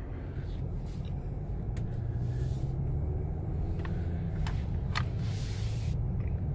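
Low, steady rumble of a 2017 Mercedes-AMG GLE 43's twin-turbo V6 and running gear heard from inside the cabin while the SUV creeps along at low speed. A few faint clicks, and a brief hiss about five seconds in.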